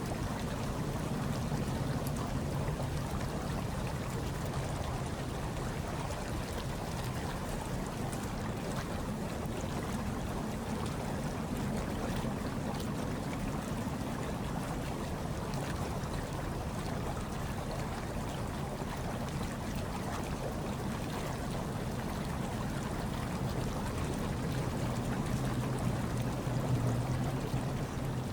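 Hot tub water churning and bubbling steadily, a low rumble with a soft hiss over it, swelling slightly near the end.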